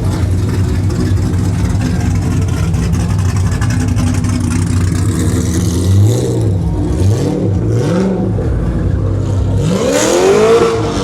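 Car engine idling, then blipped three times about a second apart, followed by a bigger rev near the end that climbs and drops back to idle.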